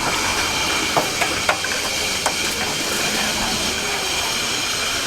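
Hot oil in a deep fryer sizzling steadily, with a few sharp pops and crackles about a second in and again a little past two seconds.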